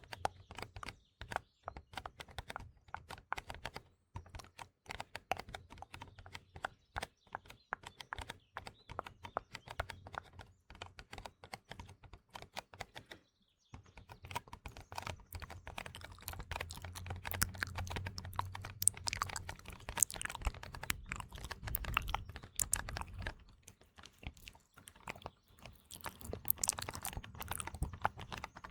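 ASMR mouth sounds, wet clicks and smacks close to the microphone, mixed with fingertip tapping on a small box in a dense run of quick clicks. About halfway through, everything drops out for a moment, then the tapping and mouth sounds come back louder.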